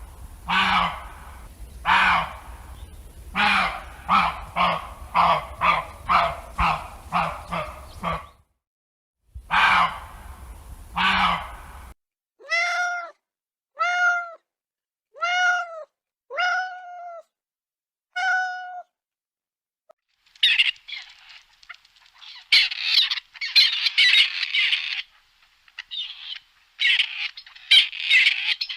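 Animal calls from several different animals in turn. First a quick run of short repeated calls, then about five clear pitched calls, then rough chattering calls near the end.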